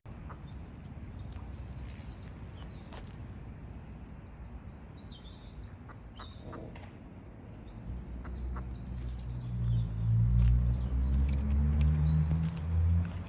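Small birds chirping and twittering in quick runs of high notes. From about eight seconds in, a low engine hum swells up and takes over as the loudest sound.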